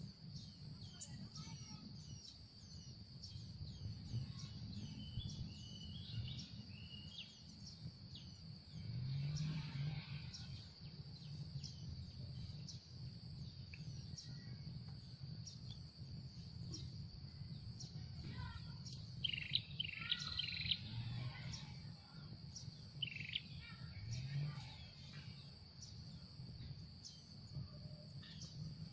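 Wild birds chirping and calling at intervals over a steady high-pitched drone, with a burst of calls about two-thirds of the way through. A few short, low, rising calls come through now and then.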